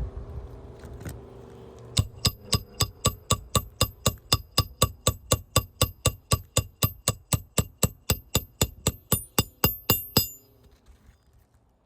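Rapid, even hammer strikes on metal, about five a second, each with a short ringing clink, beginning about two seconds in and stopping abruptly near the end, while working a damaged asphalt shingle loose for replacement.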